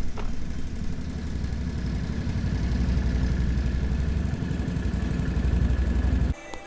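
ATV engine running steadily, a low, dense rumble that cuts off abruptly near the end.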